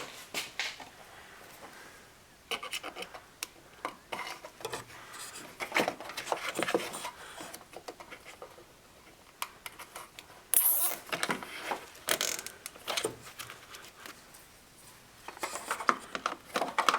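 Plastic zip ties being threaded and pulled tight on plastic trim, with irregular clicks and scraping, and a short sharp zip about ten and a half seconds in.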